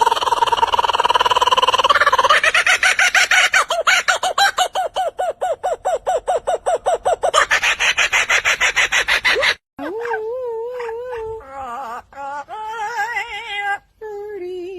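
Bird calling: a loud, rapid pulsed call of about eight notes a second for the first ten seconds. It cuts off suddenly and gives way to a different wavering, whine-like call that rises and falls in pitch.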